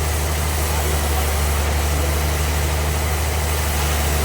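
Band sawmill machinery running steadily: a constant low engine-like hum with an even hiss over it.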